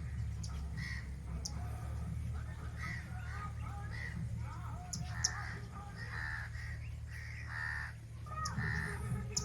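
A bird calling over and over, a string of short calls about every half second to second, over a steady low rumble.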